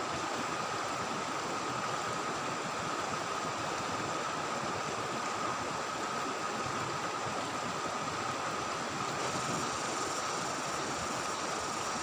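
Steady rush of flowing river water, with a steady high-pitched tone running through it.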